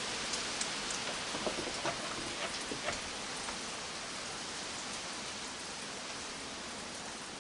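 Steady rain falling, an even hiss, with a few sharper drop-like taps in the first three seconds.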